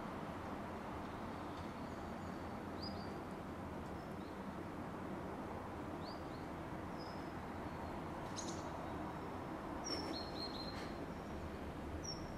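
Small birds giving short, high chirps scattered through, with a quick run of several near the end, over a steady outdoor background noise.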